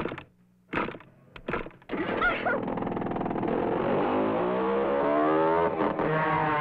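Cartoon sound effects: a few thumps in the first two seconds, then the small car's engine running and climbing steadily in pitch as it speeds away.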